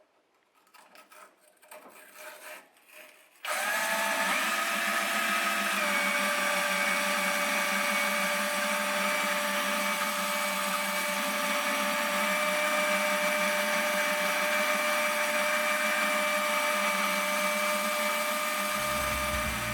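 A motor-driven hone running in the bore of a cast iron cylinder liner. A few light handling knocks, then about three and a half seconds in the motor starts and runs with a steady whine, its pitch stepping up briefly before holding steady.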